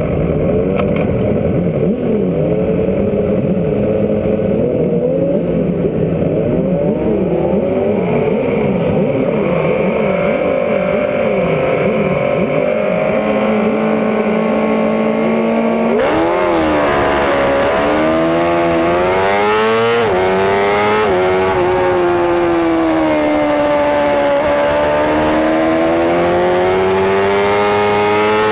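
Several racing superbike engines blipping their throttles together in quick up-and-down revs. Just past halfway one bike launches hard, its engine climbing in pitch and dropping back at each quick upshift, with wind noise rising over it.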